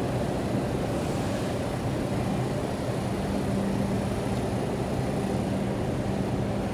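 R142 subway train humming steadily with a constant low tone over a low rumble, with no change in pitch.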